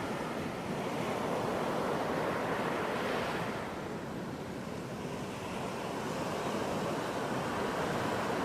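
Ocean surf washing on a beach as a steady rush of noise. A wave breaks about three seconds in, the surf eases off briefly, then builds again toward the end.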